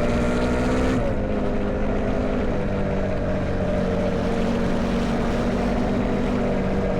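Motorcycle engine running under way at a steady throttle. Its note drops about a second in, then holds steady.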